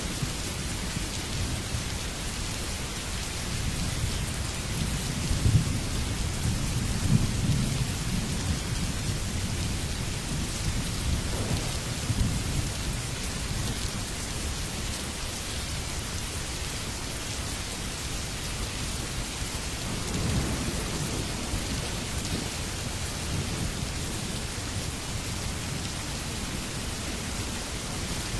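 Steady heavy rain with low, rolling thunder rumbling under it, swelling a few seconds in and again past the middle.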